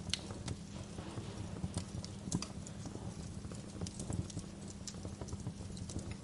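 Wood fire crackling, with irregular sharp pops and snaps over a steady low rumble of the burning logs.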